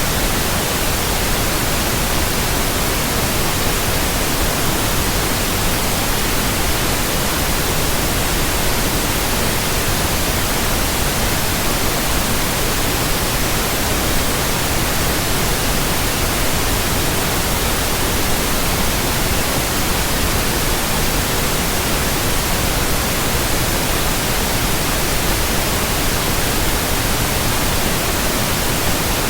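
Synthetic white noise: a steady, even hiss across all pitches that does not change.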